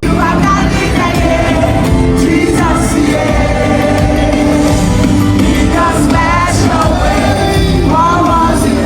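Live worship music: singing over band accompaniment, loud and continuous.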